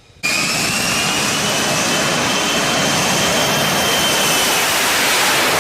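F-35B Lightning II's jet engine running at high power: a loud, steady roar with a high whine that rises slightly and then holds, starting abruptly about a quarter second in.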